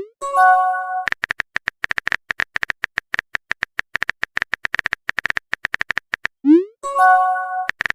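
Phone messaging sound effects: a short chime, then rapid phone-keyboard typing clicks, several a second, for about five seconds. A quick rising bloop and another chime near the end, and the typing clicks start again.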